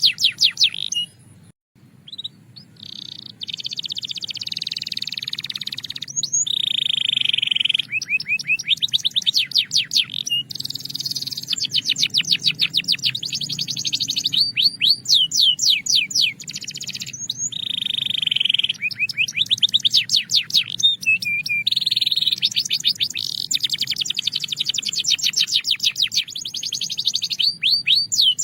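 Belgian canary singing a long continuous song of fast repeated trills and rolls. The phrases change every second or two, with a brief break about a second and a half in.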